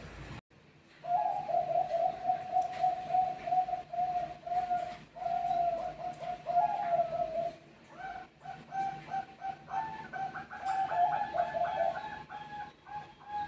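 Zebra doves (Bangkok-strain perkutut) cooing in long runs of repeated notes. A brief break comes about half a second in, and the notes turn quicker and more clipped from about eight seconds in.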